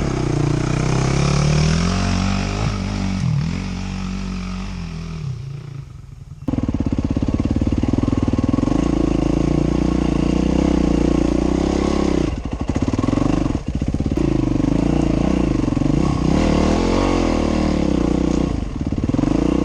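Dirt bike engine revving under load on a hill climb, the revs rising and falling with the throttle. About six seconds in the sound jumps abruptly to a louder, steadier engine note that wavers, with brief drops in the middle.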